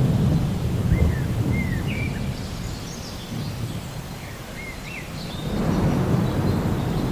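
Steady rain with thunder rumbling, loudest at the start, dying down and swelling again about two thirds of the way through. A few short bird chirps sound in the lull.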